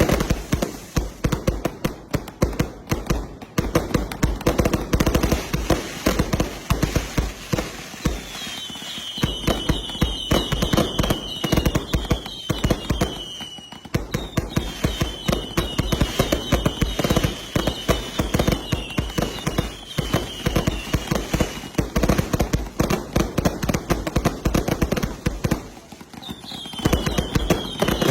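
A multi-shot fireworks cake firing in rapid succession, a dense run of launch thumps and bursting bangs. From about a third of the way in, a long string of whistling shells is added, each a short whistle falling in pitch. The barrage eases off briefly twice.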